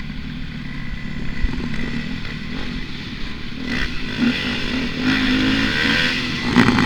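Motocross dirt bike engine running under throttle, growing louder and revving harder from about four seconds in, the pitch rising and falling.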